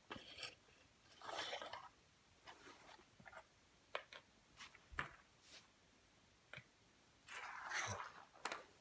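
Faint handling sounds of a plastic LEGO toy: scattered light clicks and two soft rustles, one early and one near the end.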